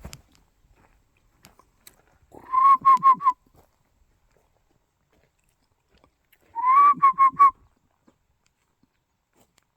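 Two loud whistled, dove-like calls about four seconds apart, each a quick run of four short notes at one pitch.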